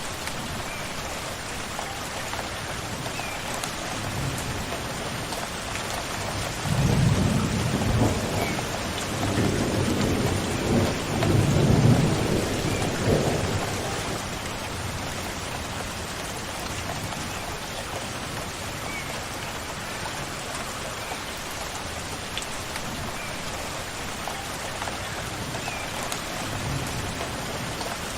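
Steady rainfall with a low rumble of thunder rolling through for several seconds a quarter of the way in, swelling and fading. A few faint short bird chirps sound over the rain.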